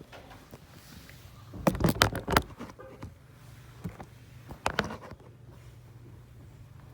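Several sharp knocks and clicks, a quick cluster of four about two seconds in and a pair near the middle, over a low steady hum.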